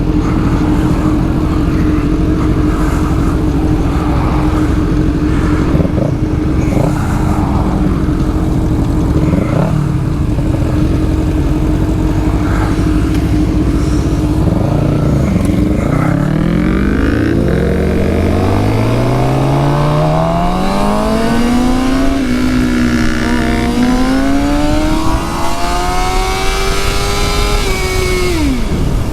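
Suzuki GSX-R750 inline-four engine running at a steady low speed for about fifteen seconds, then pulling away, its pitch rising through the revs, dipping at a gear change a little past the twenty-second mark and climbing again, before rolling off near the end.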